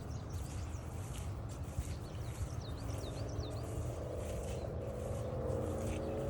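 Footsteps on a dirt trail while small birds chirp, with a quick string of rising chirps a little before halfway. From about halfway a faint engine hum comes in, slowly rising in pitch.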